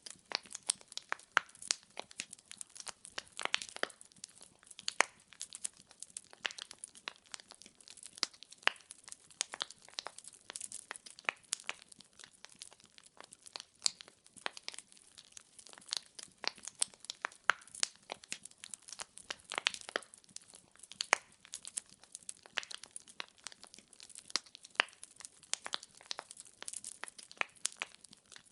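Wood fire burning in a fireplace, with dense, irregular crackles and pops over a faint hiss.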